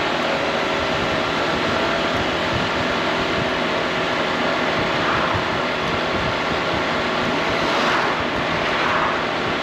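Riding noise from a Honda ADV 350 scooter: steady wind rush on the microphone over the hum of its single-cylinder engine, with a couple of brief louder swells near the end.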